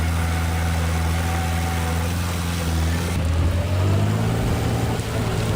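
Heavy earthmoving machine's diesel engine running steadily at low revs, then revving up about three seconds in, its pitch rising.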